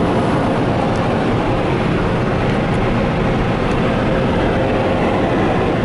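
Steady rushing road noise of a Tesla Model S rolling slowly, with no engine sound.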